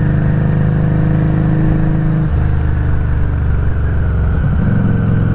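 Exhaust of a 2019 Harley-Davidson Street XG500's 500 cc V-twin under way, heard close at a Firebrand Loose Cannon slip-on muffler. The engine note changes pitch about two seconds in and again about four and a half seconds in.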